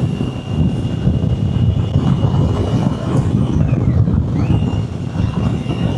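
Wind and road noise from a moving motorcycle, heard on a helmet-mounted microphone: a loud, steady low rush, windy and noisy, with a thin high whine that briefly falls away and returns around the middle.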